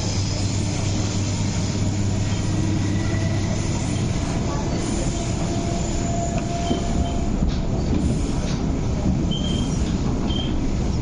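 Metro Cammell MLR electric train heard from inside the carriage, pulling out of a station and gathering speed. A steady low hum gives way after a few seconds to running noise of wheels on rails, with a few short high wheel squeals and a couple of sharp clicks in the second half.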